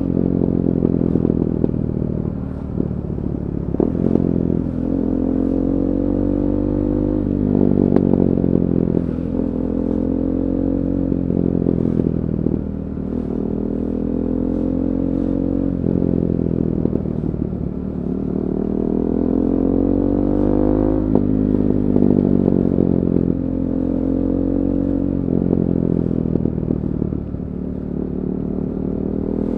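KTM 390 Duke's single-cylinder engine through an Akrapovic slip-on exhaust with a decat pipe, accelerating under way. Its pitch climbs for a few seconds and then drops sharply, several times over, as it shifts up through the gears on a quickshifter.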